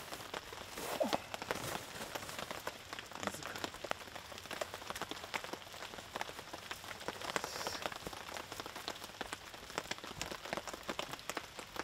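Rain falling steadily: a dense, even scatter of small drop ticks.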